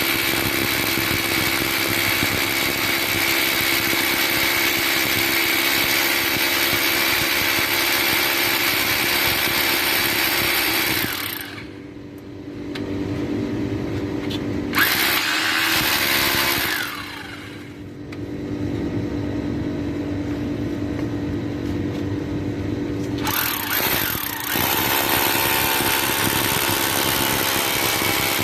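A small electric motor running steadily with a whine. It winds down and cuts out twice near the middle, then starts up again.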